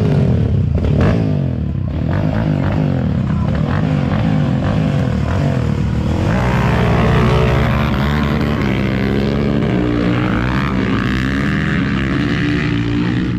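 Off-road vehicle engine running hard, its pitch rising and falling over and over as the throttle is worked.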